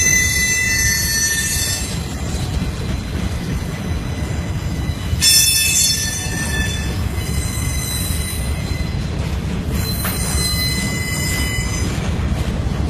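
Freight train cars rolling past with a steady low rumble, their steel wheels squealing against the rails in high-pitched bursts: one at the start, a sharp one about five seconds in, and a longer one from about eight to twelve seconds.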